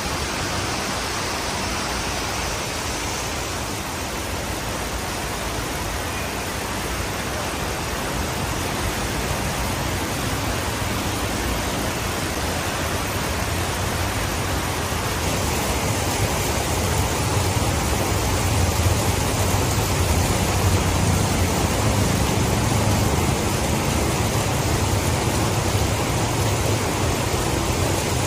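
Steady hiss of heavy rain, with a low motor-vehicle engine rumble that builds from about halfway through.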